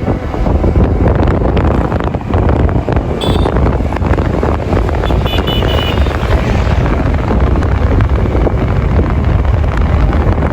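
Steady wind buffeting the microphone over road and traffic noise. Two brief faint high tones come through, about three seconds in and again about five seconds in.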